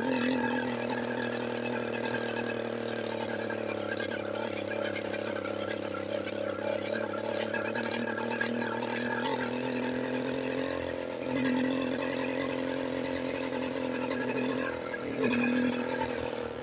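Motorized bicycle's small engine running steadily under way, at an even, held pitch.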